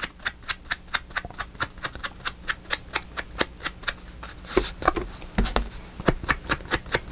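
Rapid, even tapping, about five taps a second, of ink being dabbed onto paper, with a brief rustle of paper about two-thirds of the way through.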